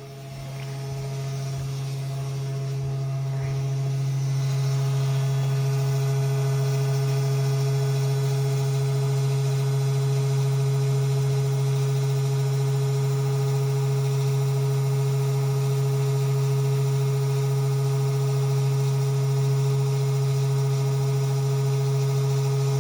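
Mini desktop CNC router engraving with a V-groove bit: its 12-volt spindle motor runs with a steady hum that grows louder over the first few seconds.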